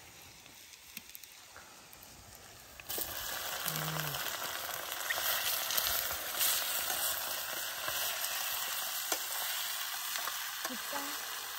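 Chicken curry frying in hot oil: a steady sizzle that starts suddenly about three seconds in and holds.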